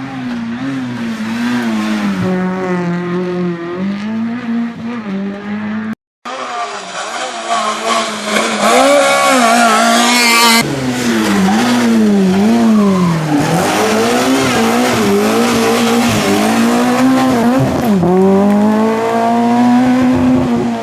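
Small Fiat rally cars' engines revving hard, the pitch climbing and dropping again and again with throttle lifts and gear changes. About six seconds in there is a brief cut to silence.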